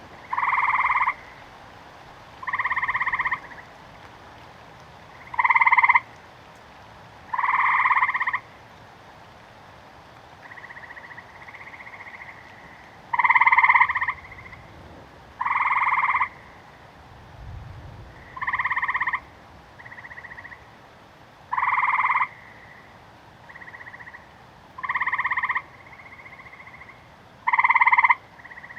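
Frogs croaking: one frog gives a loud, short call about every two to three seconds, about ten calls in all, while a fainter frog calls in the gaps between them. A steady hiss of rain runs underneath.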